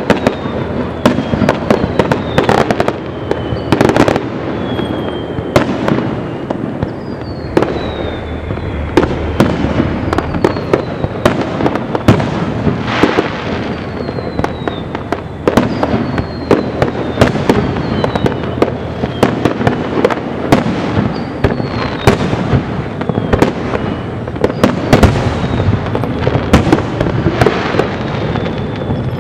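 Fireworks finale: a rapid, continuous barrage of shell bursts and bangs over a constant rumble. Short high whistles falling in pitch recur every second or two.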